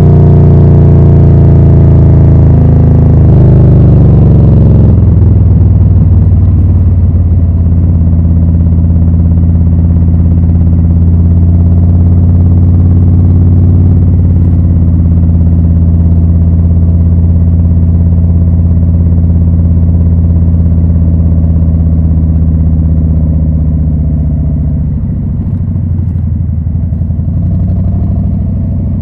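2020 Harley-Davidson Low Rider S's Milwaukee-Eight 114 V-twin running through Rinehart slip-on mufflers. Its note falls in pitch over the first few seconds, holds steady for a long stretch, then dips and climbs again near the end.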